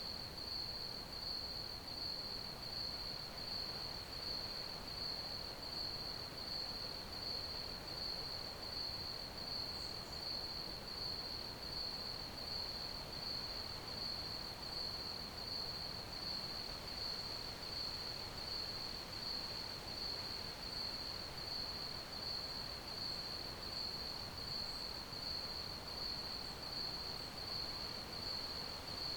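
Crickets chirping in a continuous, even, high-pitched trill that pulses steadily, over a faint background hiss.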